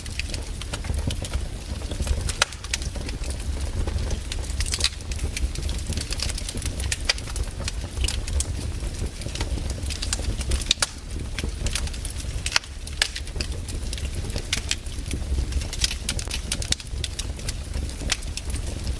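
Campfire burning, wood crackling and popping in irregular sharp snaps over a steady low rumble of the flames.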